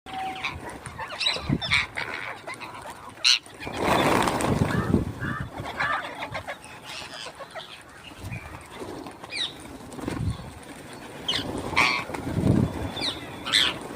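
Parrots calling, many short sharp calls scattered at irregular intervals, with a louder, rougher stretch about four seconds in.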